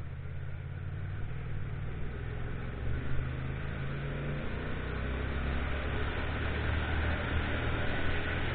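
Motorcycle engine running while riding, its low note shifting about three seconds in, with wind and road noise growing louder toward the end as it picks up speed.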